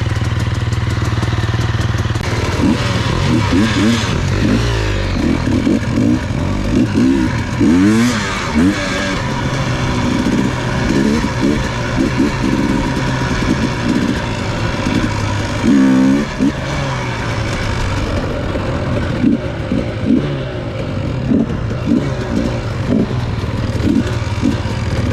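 Dirt bike engine being ridden off-road. It runs steadily for a couple of seconds, then revs up and down over and over as the throttle is worked.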